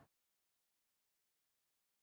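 Digital silence: the audio track has ended.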